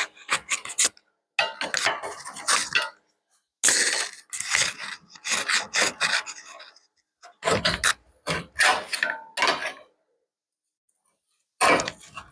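Hand-tool work on metal in short rasping strokes, coming in uneven bursts with brief pauses, and a longer pause near the end.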